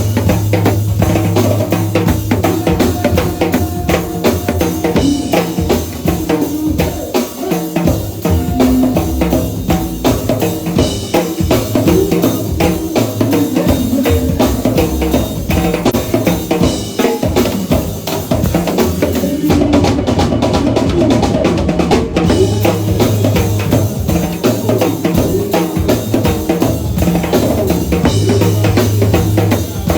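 A live band playing, with a drum kit keeping a steady beat of bass drum and snare over a held bass line.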